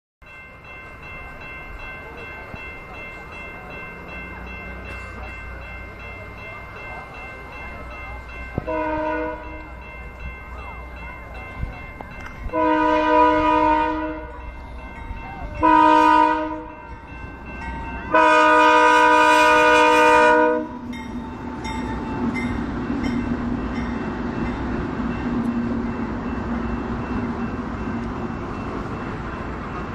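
Train horn sounding four blasts, each a chord of several tones, the last one the longest. The train then passes with a steady running noise from the wheels on the rails and regular faint clicks.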